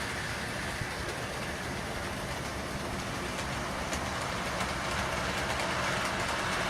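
Model train running on the layout's track: a steady rolling whir that grows slightly louder toward the end.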